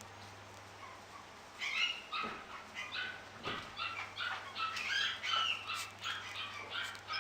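A puppy yipping and whining in a rapid run of short, high calls that start about one and a half seconds in. A low steady hum sits underneath.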